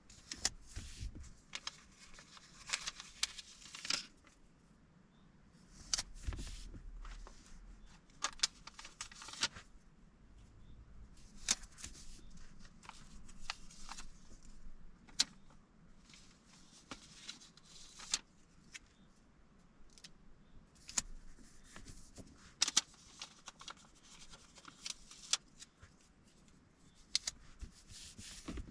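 Irregular paper rustling with small clicks and taps from a paper planner and stationery being handled.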